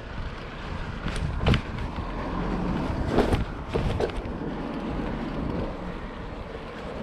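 Wind buffeting an action camera on a moving BMX, with the tyres rolling and several sharp knocks and clatters from the bike in the first half.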